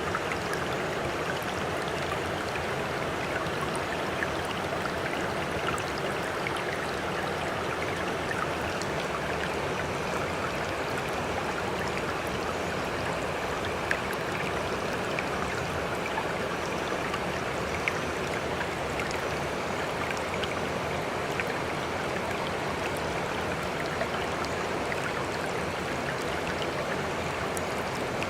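Steady, even rush of sea water with small drips and splashes ticking through it now and then; no rise and fall of separate waves.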